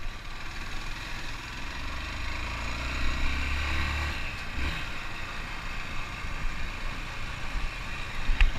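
Motorcycle engine running at low speed, with a deeper steady drone between about two and four seconds in.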